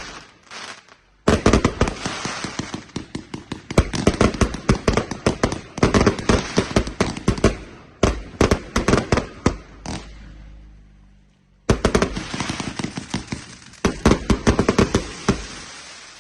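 Fireworks going off in rapid runs of sharp crackling bangs, several a second. The bangs die away about ten seconds in and resume with a fresh run about two seconds later.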